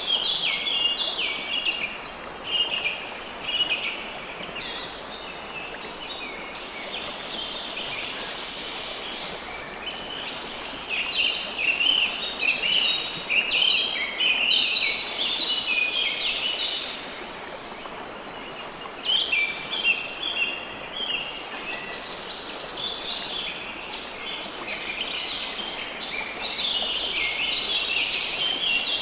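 River water flowing in a steady rush, with songbirds chirping and singing over it in busy spells, broken by quieter gaps where only the water is heard.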